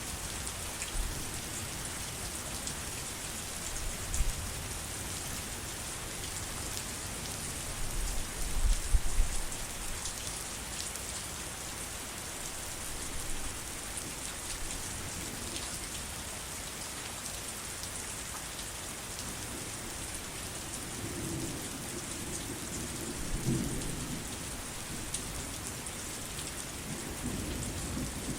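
Steady heavy rain with low rumbles of thunder several times; the loudest rumble comes about eight seconds in, with more near the end.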